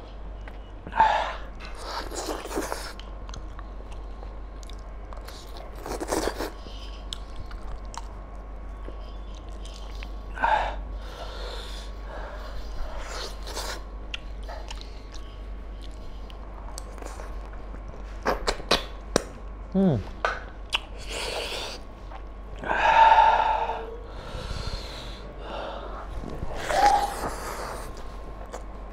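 Close-miked eating sounds of a man eating mutton curry and rice by hand: chewing and mouth noises in scattered bursts with quieter gaps between, the loudest a little past three-quarters of the way through.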